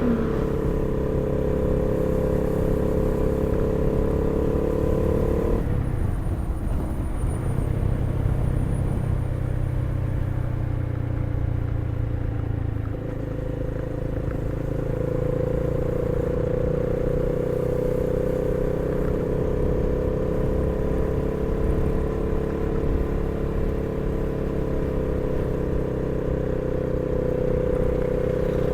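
Honda CB300R's single-cylinder engine running as the motorcycle is ridden, with a steady engine note. The note changes suddenly about six seconds in and again around thirteen seconds.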